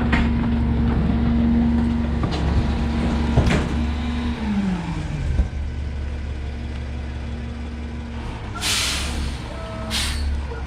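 Autocar rear-loader garbage truck running, with a steady whine that glides down in pitch a little after four seconds in, and a couple of knocks. Near the end come two air-brake hisses about a second apart, the first one longer.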